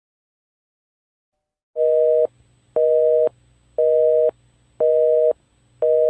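Telephone busy signal: a steady two-note beep repeating about once a second, five times, starting about two seconds in.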